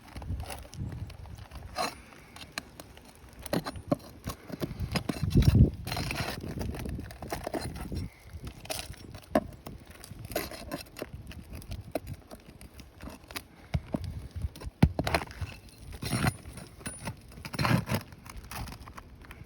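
Steel flat bar prying and scraping under old asphalt roof shingles, with irregular knocks, scrapes and cracks as brittle, delaminating shingle tabs break loose.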